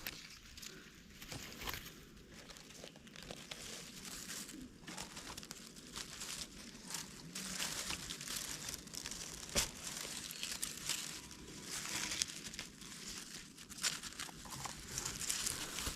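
Dry forest leaf litter and twigs rustling, crackling and snapping irregularly as wild mushrooms are picked by hand from the ground, with a few sharp snaps.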